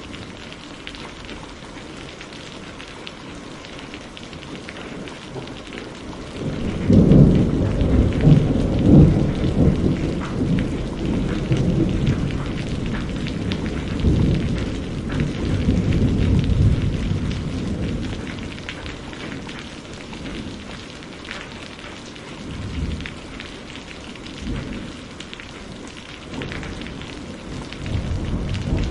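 Steady rain falling, with a long roll of thunder that breaks in about seven seconds in, rumbles for around ten seconds and fades, followed by smaller rumbles near the end.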